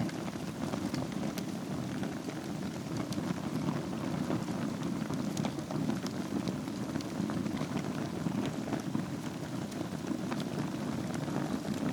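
Wood fire burning in a fireplace over glowing embers: a steady low rumble of flames with scattered sharp crackles and pops.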